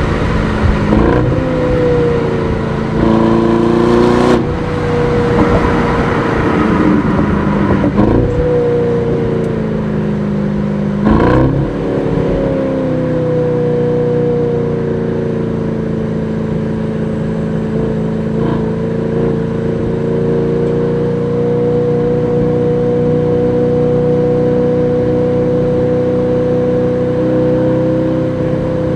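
Twin-turbo 4.0-litre V8 of an Aston Martin DBX S under way. Its pitch steps and bends about four times in the first twelve seconds, with short sharp noises near the 4 and 11 second marks, then it runs at a steady, even pitch.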